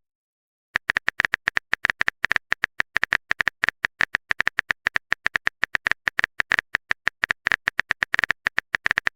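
Rapid stream of short, crisp taps, about eight to ten a second, starting just under a second in: the typing-sound effect of a phone keyboard in a texting video.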